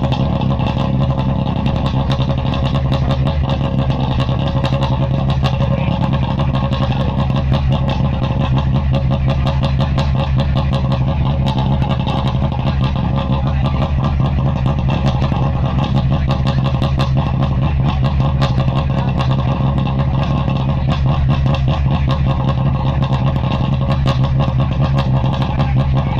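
Rally car engine running steadily at a constant pitch, with no revving.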